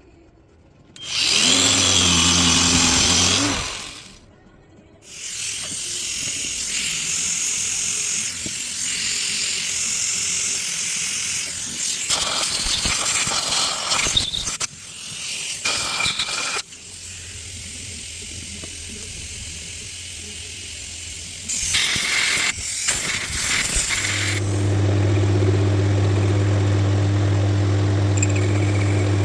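Electric power tool running in spells: a short burst about a second in, a long continuous run with several abrupt drops, then a steady motor hum for the last few seconds.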